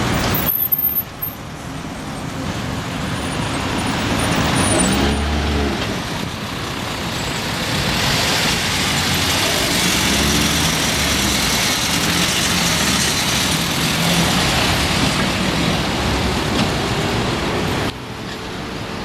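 Road traffic: motor vehicles passing with engine and tyre noise, one engine rising and falling in pitch in the middle. The sound changes abruptly near the start and again near the end.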